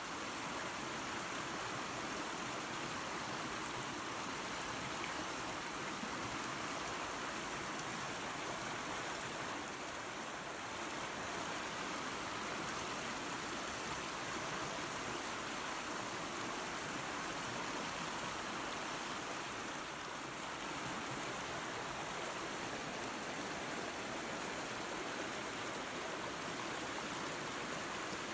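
Waterfall and creek water running: a steady, even rush of falling and flowing water.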